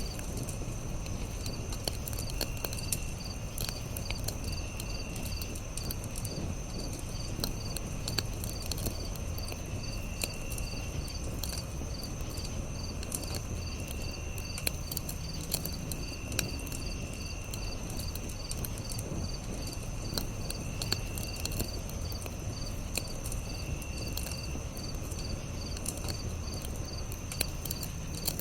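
Campfire crackling with frequent sharp pops over a low steady rumble, while crickets chirp in a fast, even pulse and other insects give short calls every few seconds.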